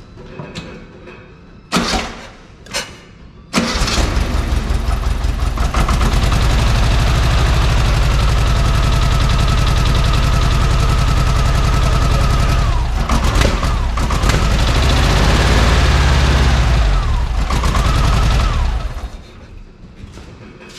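Air-cooled VW Beetle 1500 flat-four starting up after a couple of knocks and running loud and rough for about fifteen seconds, with revs rising and falling, before shutting off; the uneven running is the sign that not all four cylinders are firing.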